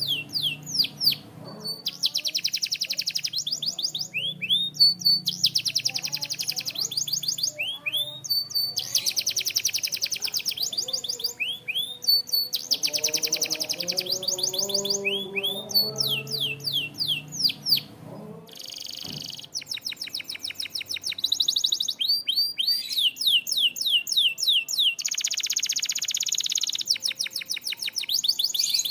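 Canary singing a long, varied song: fast rolling trills alternate with runs of quick, high, downward-sweeping whistled notes. The song breaks off briefly about two-thirds of the way through, then resumes.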